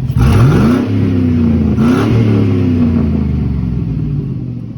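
Chevy mud truck's GM replacement engine revved twice, about two seconds apart, the pitch sweeping up sharply each time and then sinking slowly back toward idle.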